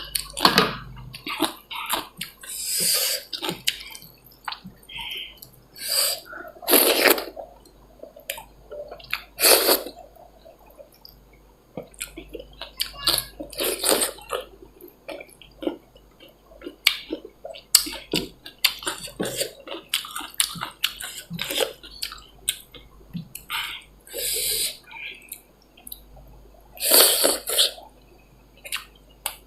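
Close-miked eating of dal bhat and chicken: wet chewing and mouth smacks with scattered clicks, and several louder wet, noisy bursts.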